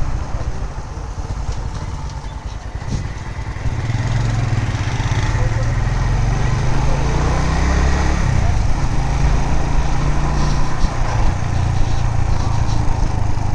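Suzuki GS150 single-cylinder motorcycle running while being ridden, with heavy wind rumble on the microphone; it grows louder about three and a half seconds in.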